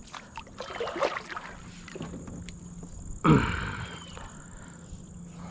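Kayak hull knocking and scraping against a log as it is forced over it in shallow water: several sharp knocks in the first second, then a loud scrape a little after three seconds in that fades away.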